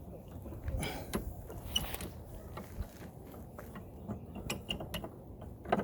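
Short clicks, knocks and scraping of hard parts being handled and fitted on a Husqvarna AWD mower's self-propel drive while a part is put back on, with one sharper click near the end.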